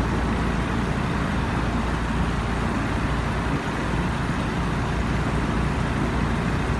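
Steady running drone of a boat's motor underway, mixed with the rush of wind and water.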